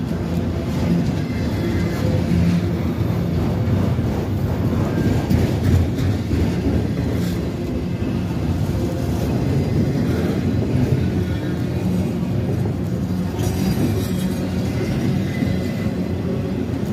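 Train running past with a steady, continuous low rumble that does not let up.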